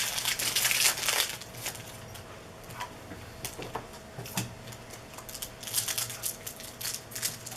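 Trading cards and a foil card pack being handled by hand: rustling with quick light clicks and snaps, busiest in the first second and again near the end, sparser in between.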